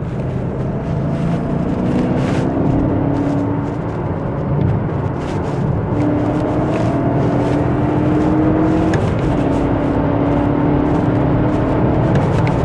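BMW E39 540i's 4.4-litre M62TU V8, heard from inside the cabin, accelerating through the gears of its six-speed manual gearbox. The engine note climbs in pitch in each gear and dips back at a gear change about nine seconds in, over steady road noise.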